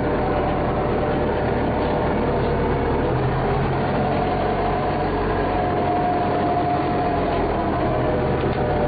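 Engine of the earth-moving machine used to level a dirt road, running steadily with a faint held whine over a low drone.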